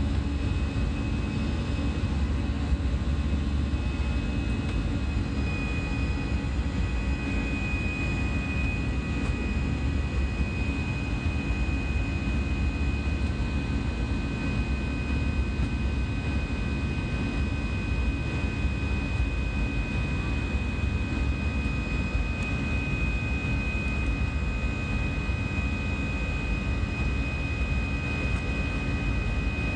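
Airbus A320 jet engines and airflow heard from inside the cabin as a steady low rumble, with a steady high whine that grows stronger about five seconds in.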